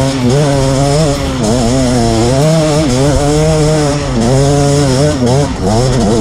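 Two-stroke KTM 250 EXC dirt bike engine running hard, its revs rising and falling about once a second with the throttle.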